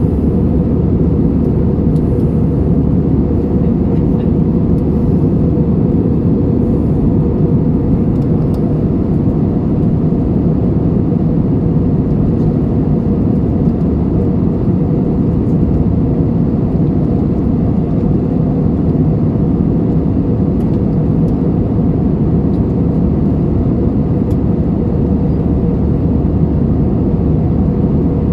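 Steady roar of an Airbus A320-200's jet engines and rushing air, heard inside the passenger cabin in flight: an even, deep rumble that does not change.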